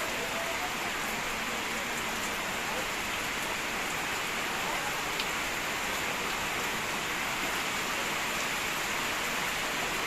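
Heavy rain falling steadily: a dense, even hiss with a few faint drop ticks.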